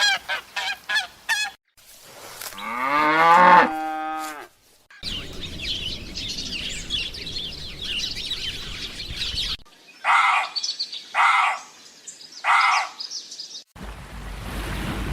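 A run of different animal calls in short cuts: quick repeated clucking-like calls, then one long call whose pitch bends and then holds steady, then a stretch of busy chirping, then three loud calls about a second apart.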